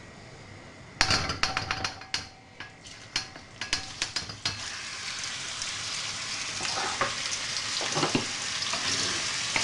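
Diced chicken, seasoned and coated in oil, hitting a hot wok: a sudden loud sizzle about a second in, full of sharp spitting crackles, that settles into a steady frying hiss as it stir-fries.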